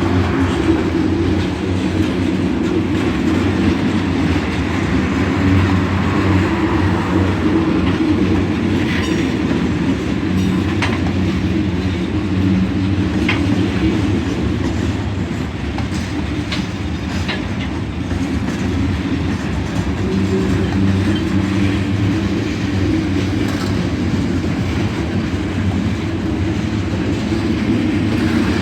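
Freight train cars of a manifest train rolling past at steady speed: a continuous low rumble with wheel clatter over the rail joints.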